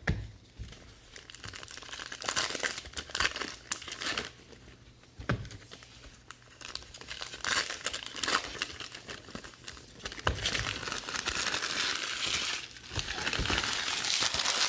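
Foil trading card pack wrappers crinkling and tearing as packs are ripped open, in irregular rustling spurts that get busier and louder after about ten seconds.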